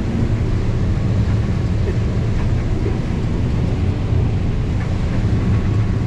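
Combine harvester running steadily while harvesting corn, a constant low engine rumble.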